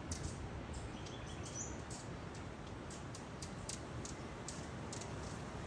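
Steady outdoor background noise with scattered short, high-pitched ticks and a brief bird chirp or two, about one and a half seconds in.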